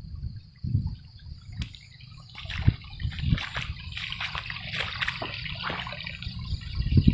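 Stormwater rushing and splashing down a swollen stream, coming in about a second and a half in and growing louder, with low rumbling thumps on the microphone.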